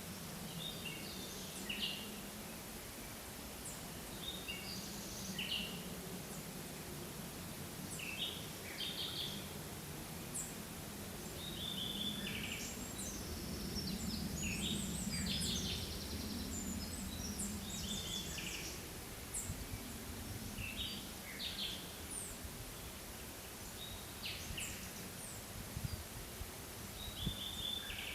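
Forest birds calling: short chirps and brief trilled phrases from several birds, scattered throughout. Beneath them is a steady low background rush that swells a little around the middle.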